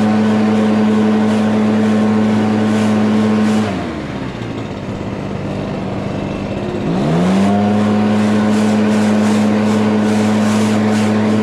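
Small engine of a grass-cutting machine running steadily at high speed, then dropping to a low idle about four seconds in and revving back up about three seconds later to run steady again.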